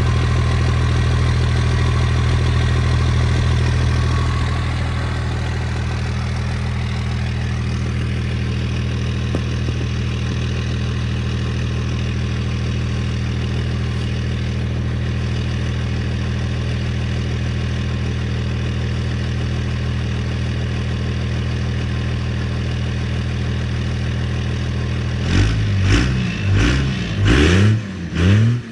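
1999 Dodge Cummins 24-valve turbo diesel straight-six, still with its stock muffler, idling steadily. Near the end it is revved several times in quick blips, each rising and falling in pitch.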